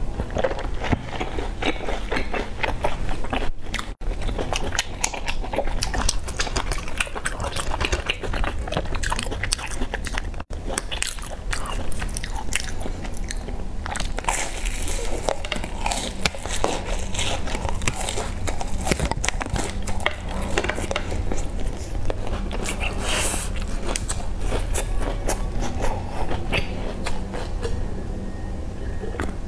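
Close-miked crunching as crisp round sandwich biscuits are bitten and chewed, a dense stream of crisp cracks, broken by two brief gaps.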